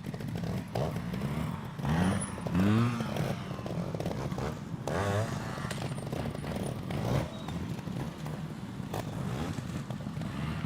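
Trials motorcycle engine running with repeated short throttle blips, the pitch rising and falling quickly. The loudest bursts come about two and three seconds in, with another about five seconds in.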